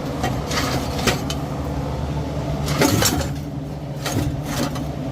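Metal clinks and knocks from the loose, rusted-out exhaust and muffler being handled, a few sharp strikes spread through, over a steady low hum.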